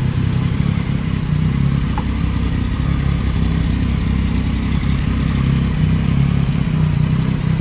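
Yamaha MT-09's inline three-cylinder engine running at a steady pitch, with no big revs or shifts.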